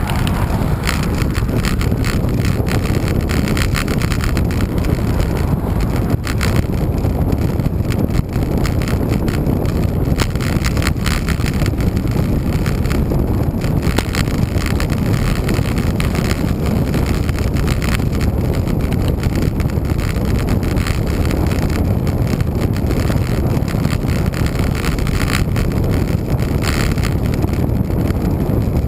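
Steady wind rushing and buffeting over the microphone of a camera riding on a moving road bike, loud and low, with tyre and road noise under it.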